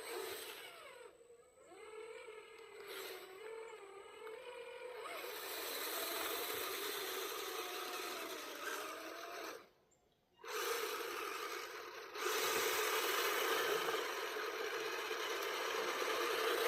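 RC truck's electric motor and gear drive whining, the pitch wavering up and down with the throttle, over scraping and rustling from driving on the ground. It cuts out briefly just under halfway through, then returns louder.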